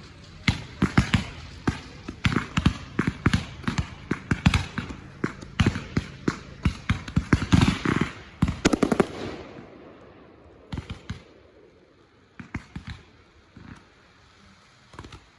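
Consumer fireworks firing a rapid barrage of sharp bangs and crackles for about nine seconds, thickest just before it ends. A few scattered pops follow.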